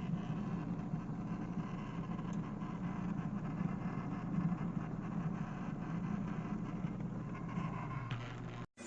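Mini portable washing machine running with a steady motor hum and churning, cutting off abruptly near the end.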